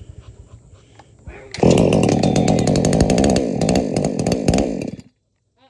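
New PROYAMA 68cc two-stroke chainsaw firing about one and a half seconds in and running loudly for about three and a half seconds on its first start, then cutting off suddenly.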